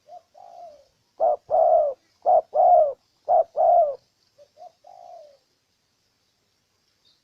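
Spotted dove cooing one song phrase: a soft pair of notes, then three loud pairs of a short note and a longer falling coo, and a soft closing pair.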